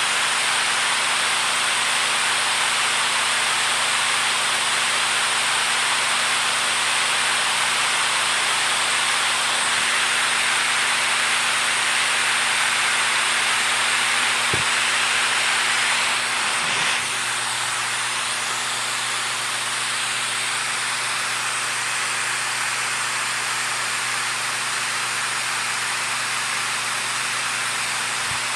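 Steady rushing water, an even hiss with no distinct splashes or drips; it drops slightly in level about seventeen seconds in.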